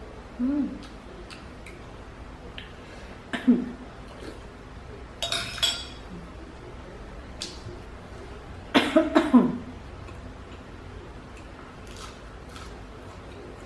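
Someone eating a bowl of fish-ball soup with rice noodles and tofu: a spoon clinking against the bowl about five seconds in, with short mouth sounds near three and a half seconds and a quick cluster of them about nine seconds in.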